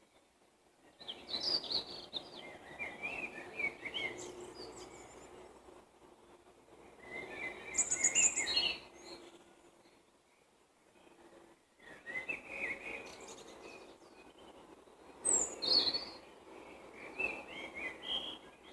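Songbird singing in four phrases of quick chirping notes, each about two to three seconds long, with short pauses between.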